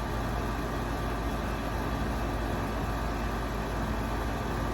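Steady low rumbling background noise with a faint hiss, unchanging throughout.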